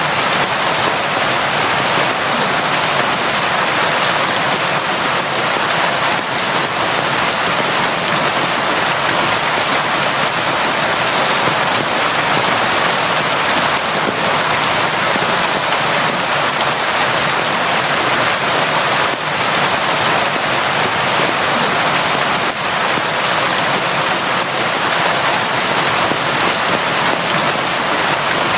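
Steady, heavy rain falling without a break, a dense even hiss of drops.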